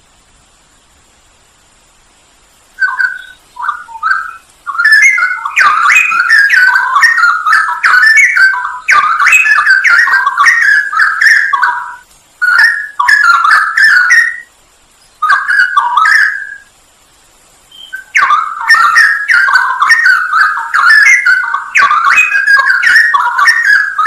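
Straw-headed bulbul (cucak rowo) singing: loud, bubbling, rapidly warbled phrases that begin about three seconds in and continue in long bursts broken by short pauses.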